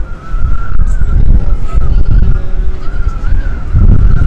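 Strong wind buffeting the microphone in low, gusting rumbles, heard from inside a ropeway gondola, with a thin wavering whistle above it.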